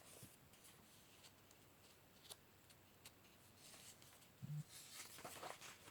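Near silence: room tone, with a few faint soft clicks and rustles in the second half.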